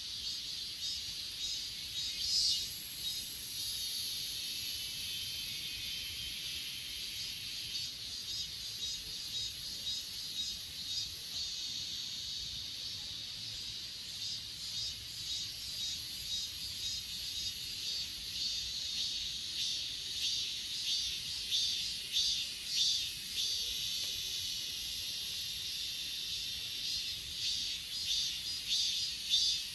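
Chorus of grass insects such as crickets singing: a steady high-pitched trill with pulsed chirping over it, the chirping stronger near the start and again in the last third.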